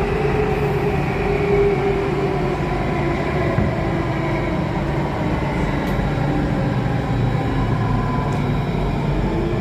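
Alstom Metropolis C830 metro train heard from inside the cabin while running: steady rumble and rail noise under a whine from the traction motors. The whine slowly falls in pitch as the train slows on its approach to the station.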